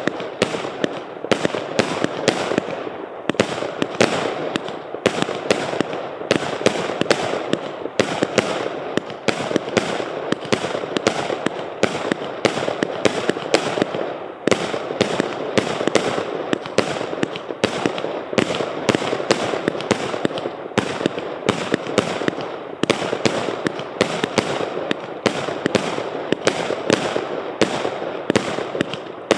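A 200-shot, 0.8-inch fireworks battery cake firing, with sharp shots and bursts following one another several times a second without a break.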